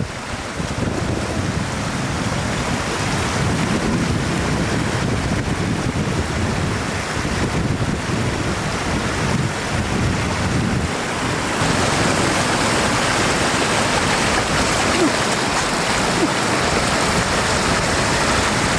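Steady rushing water noise with gusty wind rumble on the microphone. About halfway through, the hiss grows brighter and a little louder.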